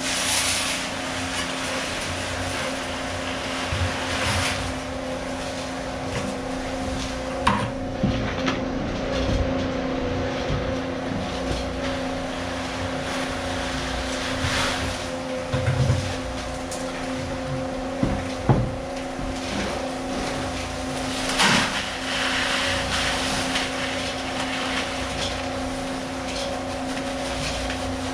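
A motor running at a steady pitch throughout, with several swells of scraping noise and a few sharp knocks over it.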